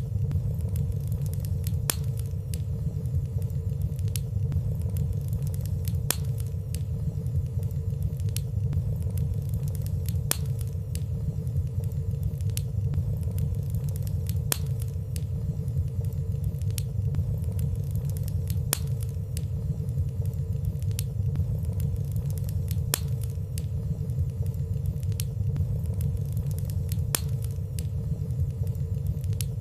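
Wood fire burning softly in a fireplace: a steady low rumble of flames with faint, sparse crackle ticks and no loud pops.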